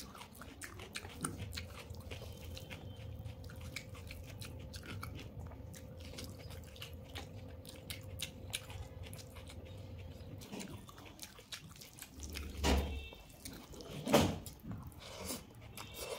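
Close-miked chewing and wet mouth sounds of a person eating soft food, mixed with fingers working rice and omelette on a brass plate: a stream of small clicks and smacks, with two louder noises about a second and a half apart near the end.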